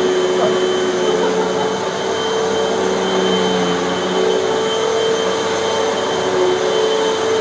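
Hoover bagless vacuum cleaner running steadily over carpet, its motor hum shifting slightly in pitch now and then.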